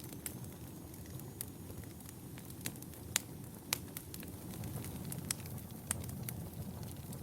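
Wood fire burning in a fireplace: a steady low rumble of flames with scattered sharp crackles and pops, the loudest a little after three seconds and just before four seconds in.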